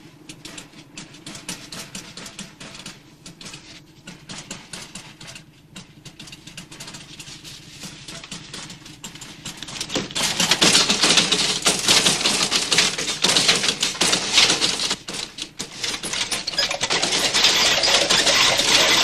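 Rapid, dense rattling and clicking, like many loose objects shaking, that swells sharply about ten seconds in and stays loud.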